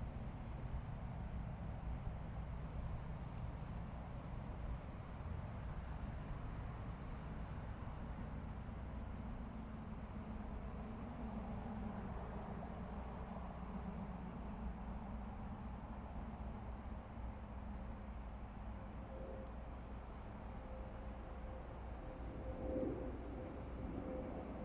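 Insect chirping outdoors: short high chirps repeating about every second and a half over a steady low rumble. A faint steady hum comes in near the end.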